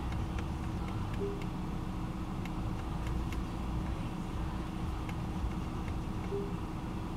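Car engine idling, heard from inside the cabin as a steady low rumble, with two short beeps, one about a second in and one near the end.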